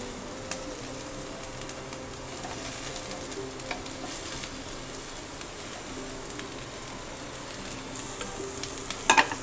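Onions and freshly added chopped vegetables sizzling steadily in hot oil in a kadai, with light scraping as they are pushed off a plate with a spatula and stirred with a wooden spatula. A couple of louder spatula scrapes come near the end.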